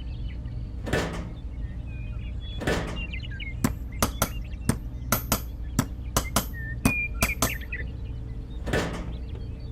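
A quick series of sharp knocks or taps, several a second for a few seconds midway, with a few duller knocks before and after, over a steady low hum.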